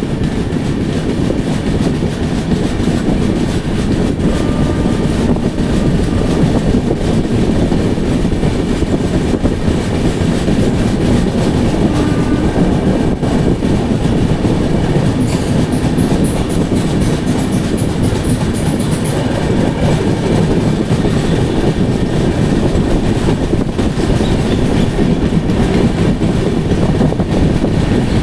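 Duronto Express train running at speed through a station without stopping: a steady loud rumble of the wheels on the track with a clickety-clack from the rails. A rapid high rattle comes in for about four seconds past the middle.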